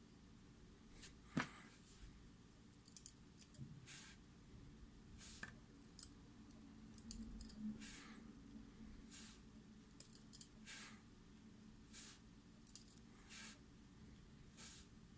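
Faint, irregular small clicks and short scrapes, about a dozen spread over the stretch, from the small metal parts of a Mul-T-Lock MT5+ lock cylinder and the tools being handled.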